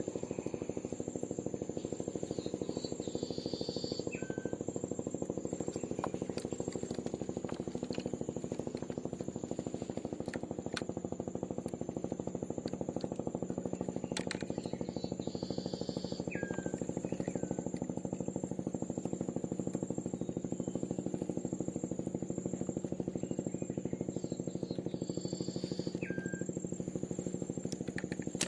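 A small engine running steadily at an even speed throughout, with three short high calls, each ending in a falling note, about ten seconds apart over it.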